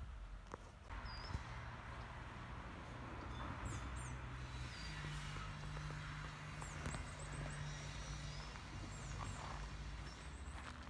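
Small birds chirping and trilling every second or two, over a low steady hum that steps up in pitch about halfway through.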